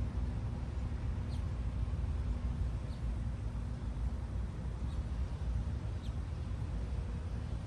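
Four short, high bird chirps spaced a second or two apart, faint over a steady low rumble with a low hum.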